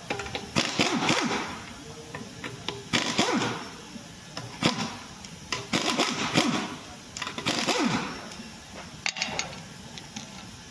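Audi's brakes making a harsh scraping, grinding noise in repeated surges about every one and a half to two seconds, each surge dropping in pitch, the noise the customer complains of.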